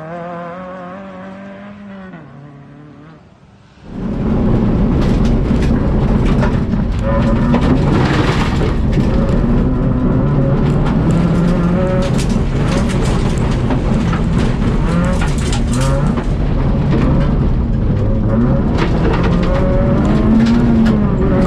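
Citroën Saxo VTS rally car's four-cylinder engine bursting in loud about four seconds in, after a fading tune, then revving up and down hard through the gears while cornering, with steady clatter of loose surface against the car.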